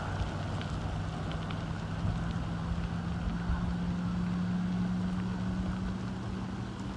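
A vehicle engine running with a steady low hum under a hiss of rain and water noise. A few faint drop ticks come in the first couple of seconds.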